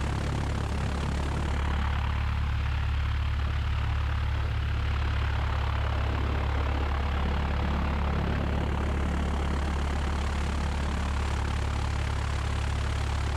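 Cessna 172's four-cylinder Lycoming O-320 piston engine and propeller running steadily at low power while the aircraft holds short of the runway.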